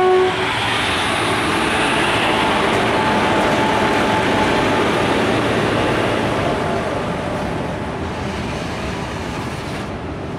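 Loaded BOXN freight wagons rolling past on the rails behind a pair of WAG-7 electric locomotives: a steady, dense noise of wheels on track that eases off from about two-thirds of the way through. A short locomotive horn note cuts off right at the start.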